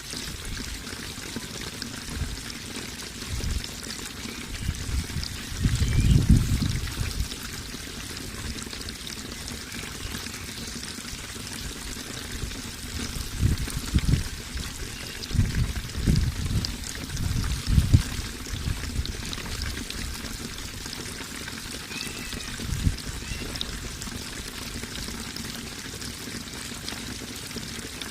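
Running water pouring and trickling steadily, with deeper low surges about six seconds in and again several times a little past the middle.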